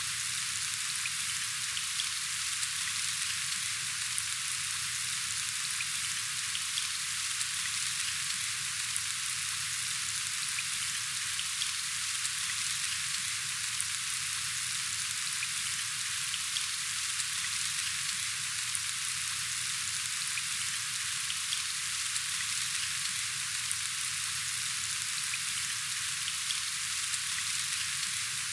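Steady rain: a dense, even hiss of falling drops with faint ticks of single drops.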